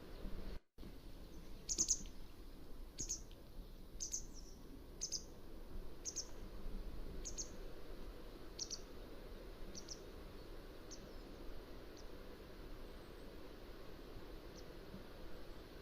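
Mountain wagtail calling: a series of short, high, sharp call notes, about one a second, growing fainter over some ten seconds, with one last faint note near the end.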